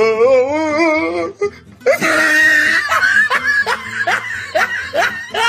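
Music with laughter-like voice sounds: a wavering held pitched call, then a run of short rising calls about three a second.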